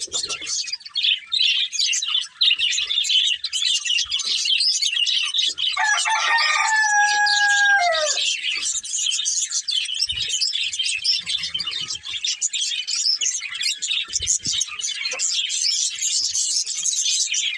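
Budgerigars chattering and chirping continuously in a dense, high twitter. About six seconds in, a lower, held call lasts about two seconds and drops in pitch at its end.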